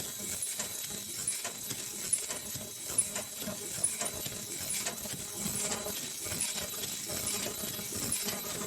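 High-speed automatic N95 mask-making machine with its packing line running: a steady mechanical clatter of many small clicks over a thin high tone, with a sharp high tick repeating a little under a second apart.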